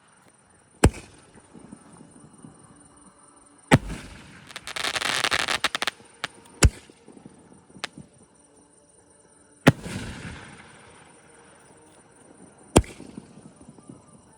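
Mr. Big OSCAR 3-inch, 24-shot repeating fireworks cake firing aerial shells: five sharp bangs about three seconds apart, with a dense spell of crackling after the second.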